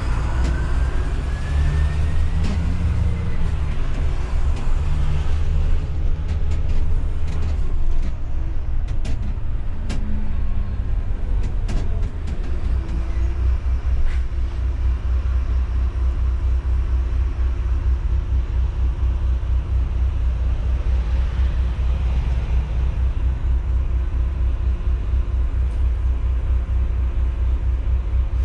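Coach bus under way, with a steady low engine and road rumble. A whine rises in pitch over the first few seconds, and scattered clicks and rattles come in the first half.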